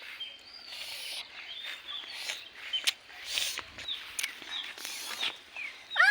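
Small birds chirping in short, high, repeated notes, with a few brief rustling noises among them.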